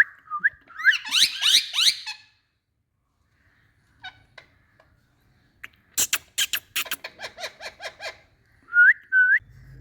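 Indian ringneck parrot whistling and calling: short rising whistles, then a quick run of rising chattering calls. After a pause comes a rapid series of harsh screeches about six a second, and two rising whistles near the end.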